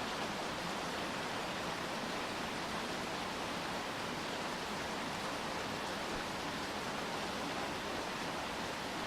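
Steady rain falling, an even hiss with no separate drops or splashes standing out.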